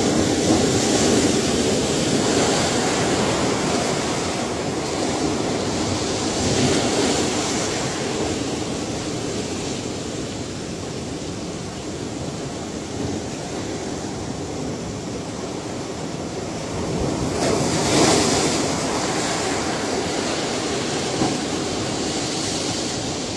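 Ocean waves breaking on a shore, a steady wash of surf that swells and falls, with the loudest wave breaking about two-thirds of the way through.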